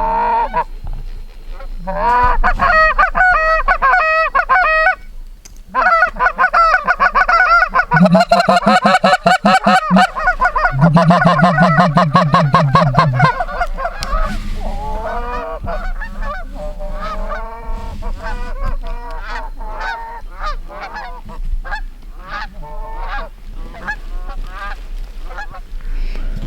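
Geese honking in rapid, overlapping calls, with a short lull about five seconds in and a lower, steadier call joining in the middle.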